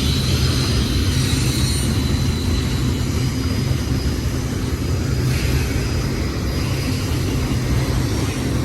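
Union Pacific double-stack container freight train rolling past with a steady rumble of cars on the rails, with a faint high wheel squeal that fades out in the first couple of seconds.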